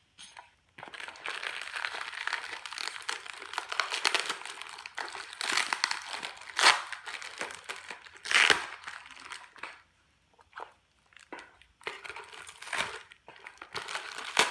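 Thin plastic packaging crinkling and rustling as it is handled and pulled open, with a few sharper loud crackles and a short pause about two-thirds of the way through.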